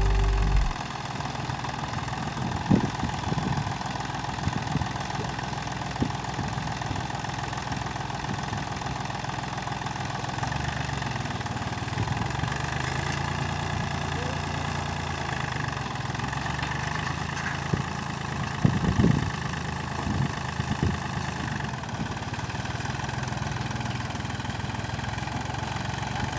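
An engine running steadily at idle, with a few short knocks.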